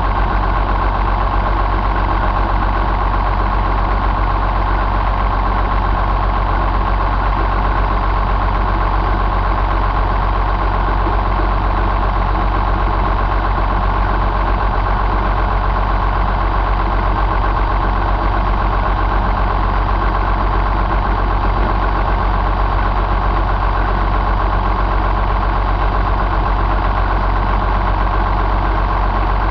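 John Deere 6068 6.8-litre inline six-cylinder diesel engine running at a steady speed, with no revving.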